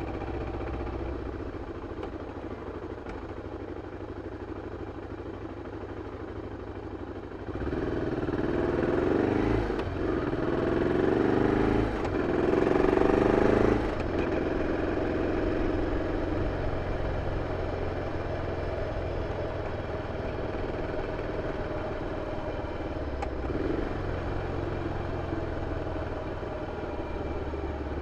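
BMW F 650 CS Scarver's single-cylinder engine through its stock exhaust, running steadily at first. About seven seconds in it gets louder in three pulls, with short dips between them. It drops back sharply after about fourteen seconds to a steady run.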